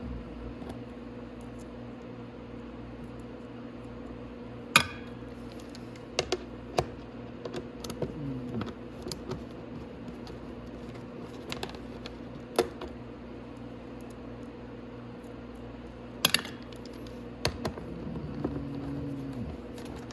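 A driver fitted with a 5 mm Allen bit whirring in two short runs that wind down as it backs out the footwell bolts, with several sharp metal clicks of bolts and tools being handled, over a steady low hum.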